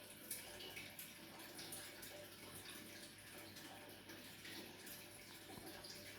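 Faint, steady trickling and splashing of water falling from an overhead sump filter into an aquarium, with many small drips.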